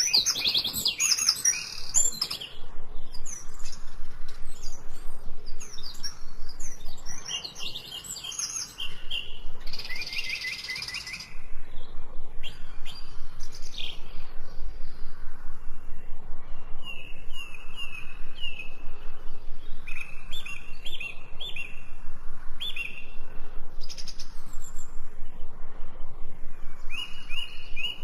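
Several small birds singing and chirping, with a dense rush of high notes about ten seconds in and a short call repeated over and over through the second half.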